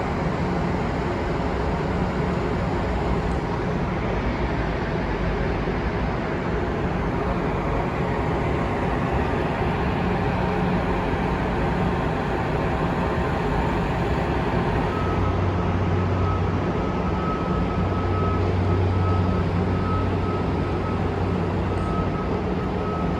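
Steady, fairly loud rumble and hum of background noise, with a thin steady high tone and a deeper hum joining about two thirds of the way through.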